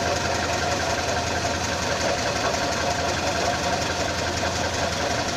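GAZ-24-10 Volga's ZMZ-402 four-cylinder petrol engine idling steadily, with a steady tone riding over it from a newly fitted Pramo water pump that went noisy straight after installation.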